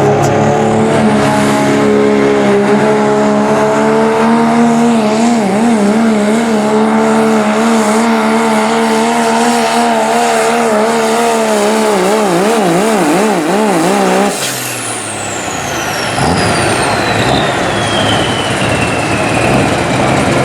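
Turbo-diesel pickup engine at full throttle pulling a sled, its pitch holding steady and then wavering rapidly up and down. About two-thirds of the way through the engine is let off. A high turbocharger whistle then falls steadily in pitch as it winds down.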